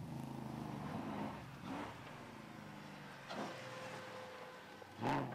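A 4x4 safari racing car's engine running, its note fading after about a second. A few short bursts of noise follow, and a louder one comes near the end.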